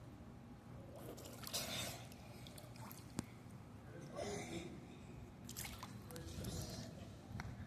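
Water splashing faintly, in three short bursts.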